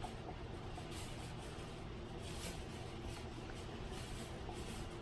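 Faint scratching strokes of handwriting: a writing tool rubbing over a page in short, irregular strokes.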